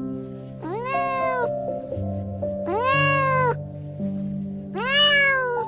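A domestic cat meowing three times, each call about a second long, rising then falling in pitch, over background music with long held notes.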